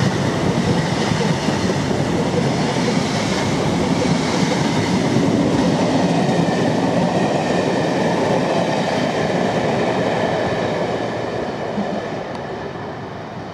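Passenger train coaches running past close by, a steady rumble of wheels on the rails that fades in the last couple of seconds as the train draws away.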